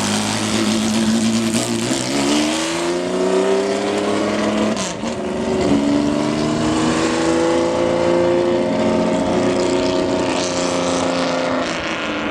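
Porsche race car's flat-six engine accelerating hard: the pitch climbs, drops at an upshift about five seconds in, then climbs again and eases off near the end.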